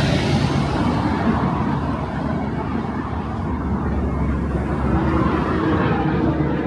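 Steady outdoor city ambience dominated by the low engine drone of vehicle traffic. A faint steady humming tone joins about five seconds in.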